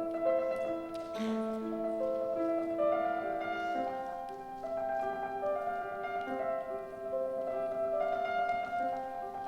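Solo piano playing a slow classical passage, with held notes and chords under a moving melody.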